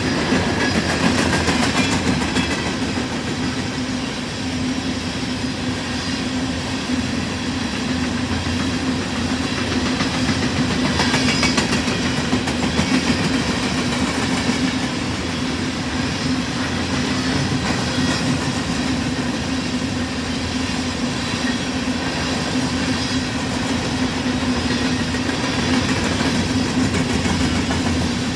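Freight train rolling past steadily, with the continuous rumble and clatter of wheels and cars on the rails.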